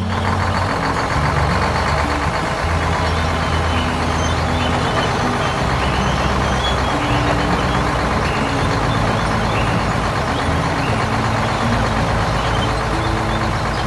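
A small mini tractor engine running steadily, with background music's low notes changing underneath.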